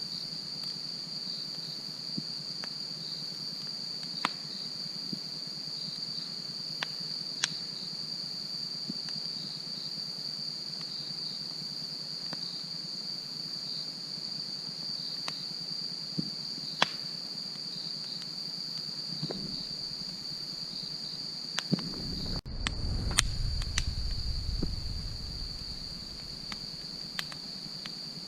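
Crickets trilling steadily on one high note, with a campfire's scattered sharp crackles and pops. About 22 seconds in there is a brief dropout, then a low rumble for about three seconds.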